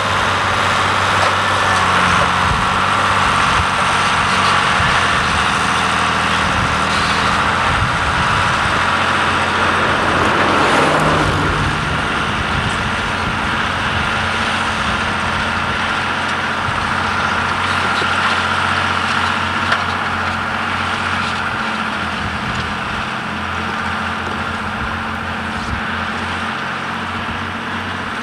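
Tractor diesel engine running steadily under working load, swelling briefly about ten seconds in and easing a little near the end.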